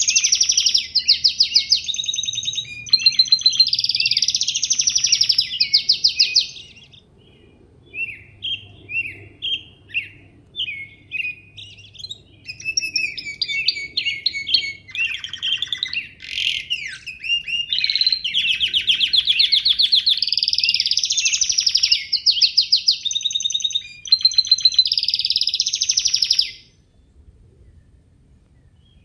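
Songbirds singing: long runs of rapid trilled, twittering song alternate with a stretch of short, separate chirps. The singing stops near the end.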